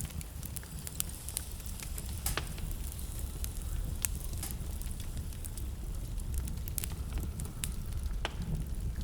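Wood burning in a fireplace: irregular sharp crackles and pops, about a dozen, over a steady low rumble.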